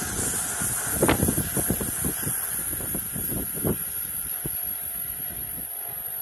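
Amtrak Acela II high-speed trainset pulling away, its wheels clicking and thumping over the track joints under a steady rush of rail noise; the clicks come thick over the first four seconds or so, then thin out as the train recedes.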